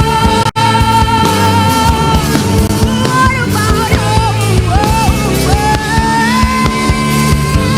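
Live rock band playing, with a lead line holding and bending notes over bass and drums. The sound drops out for an instant about half a second in.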